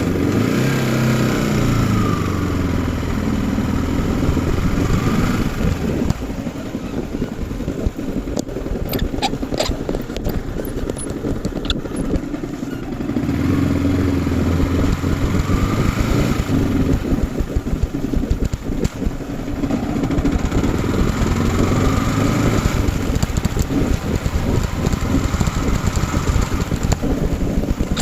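Yamaha R15 V4 motorcycle's single-cylinder engine under way, its pitch climbing and dropping back several times as the bike is ridden through the revs, over a steady rush of road and wind noise. A few sharp clicks come about a third of the way in.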